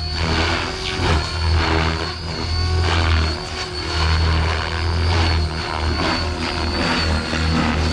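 Oxy5 electric RC helicopter in flight: a steady high motor whine over a low rotor drone that swells and dips as it manoeuvres.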